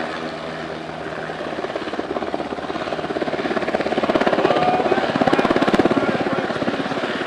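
Sikorsky MH-60 Jayhawk helicopter in flight, its four-blade main rotor making a rapid, even blade slap that grows louder about four seconds in and eases off near the end.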